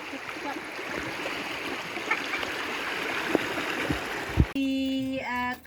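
Steady rush of water past a moving boat, with faint voices under it and two sharp knocks near the end. It cuts off abruptly to a held, sung note.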